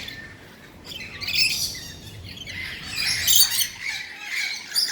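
Parrots squawking: a series of harsh, rasping calls that come in bursts, loudest about three seconds in and near the end.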